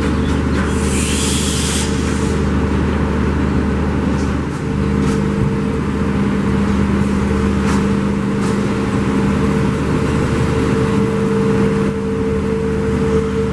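Diesel passenger locomotive engine running with a steady drone that shifts and grows stronger about four and a half seconds in. A short burst of hiss sounds about a second in.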